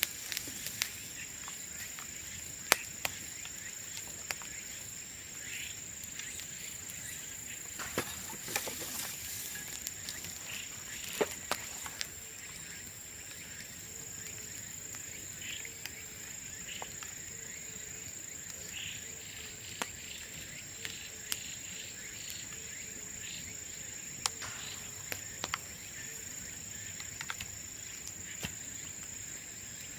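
Bamboo burning in an open bonfire: scattered sharp crackles and pops, a few of them loud, over a steady high-pitched drone of insects.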